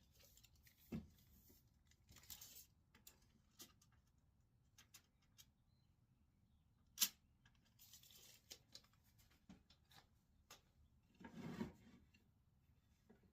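Faint scattered clicks, taps and short rubbing or scraping sounds, like light handling noise, with one sharp click about seven seconds in.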